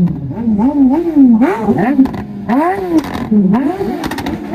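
Superbike engine revved again and again in quick throttle blips, its pitch rising and falling several times in a row.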